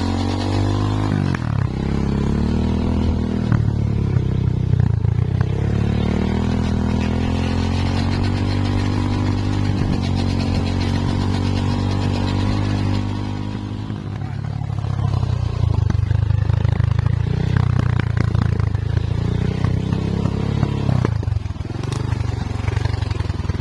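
Two-stroke chainsaw running under load as it cuts through a teak trunk. The engine pitch dips and recovers several times as the saw bogs in the cut and picks up again.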